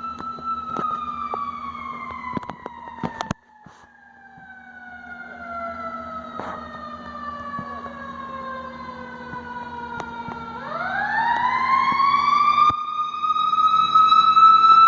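Fire truck siren falling slowly in pitch for about ten seconds, then winding quickly back up and growing louder near the end.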